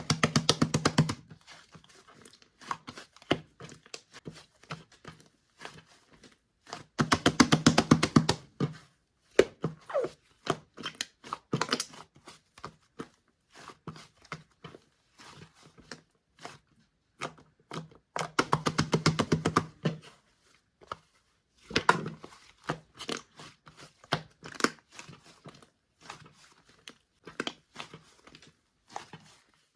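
Hands squishing and stretching fluffy slime: bursts of rapid wet clicking and crackling every few seconds, with softer scattered clicks between them.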